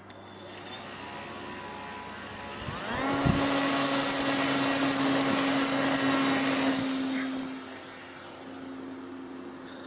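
Electric RC model airplane's motor and propeller whirring; about three seconds in the whine winds up to a higher steady pitch under throttle, then it falls away after about seven seconds.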